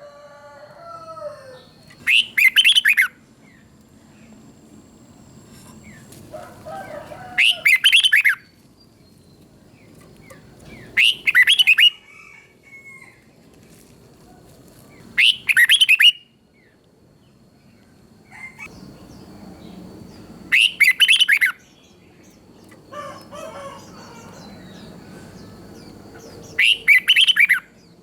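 Red-whiskered bulbul singing loud, short, bright song phrases, six in all, each under a second long and spaced about every four to six seconds, with softer chirps between them.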